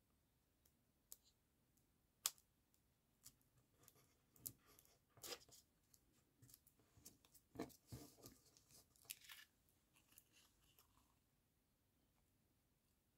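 Faint handling of paper and card: soft rustles with scattered small clicks and taps.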